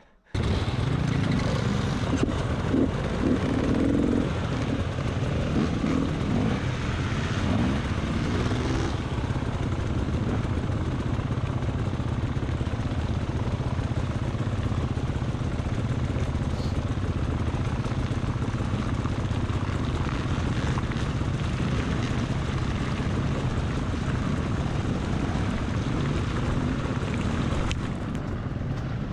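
Two-stroke dirt bike engine running under way, with wind noise. The revs rise and fall over the first several seconds, then hold steady.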